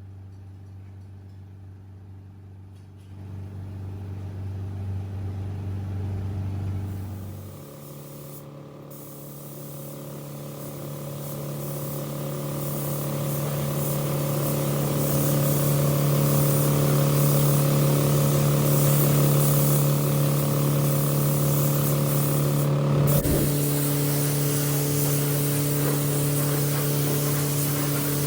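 A low steady machine hum, then about seven seconds in a higher steady motor hum starts, with a hiss of spraying building up over it and carrying on.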